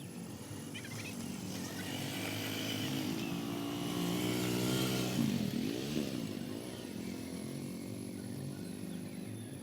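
A motorcycle engine approaches and passes close by. It grows louder toward the middle, and its note drops as it goes past, then fades away.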